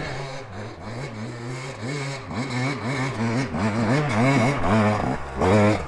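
Yamaha YZ250X two-stroke dirt bike engine revving in repeated short surges, its pitch rising and falling again and again and louder near the end, as it is ridden up a steep climb.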